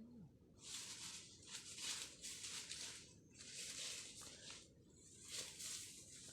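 Repeated bursts of dry rustling or scraping, each lasting about a second, with short gaps between them.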